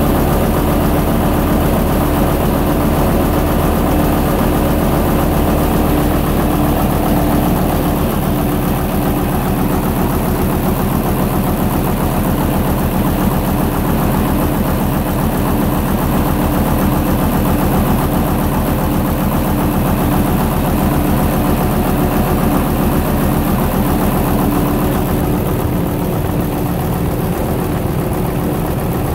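Gardner LW diesel engine driving a generator, running steadily with an even low beat.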